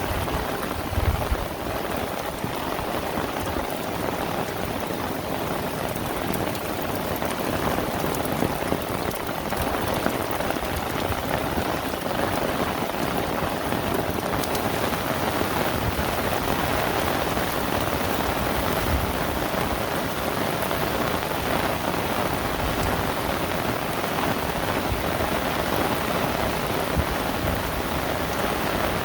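Heavy rain falling steadily, a dense even patter, with a few brief low thumps.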